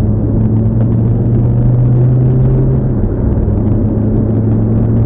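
Lamborghini engine heard from inside the cabin, running steadily as the car drives on, with a deep rumble under it. Its note drops a little about three seconds in.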